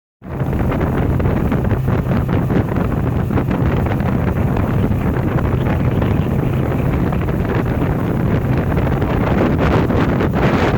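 Heavy wind buffeting the microphone aboard a Zar Formenti 6.1 RIB under way, with the boat's engine running steadily as a low drone beneath.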